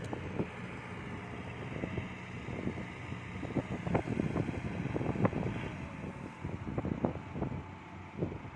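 Diesel engine of a Kubota DC70 Plus rice combine harvester running with a steady hum, with irregular crackles and knocks over the middle few seconds.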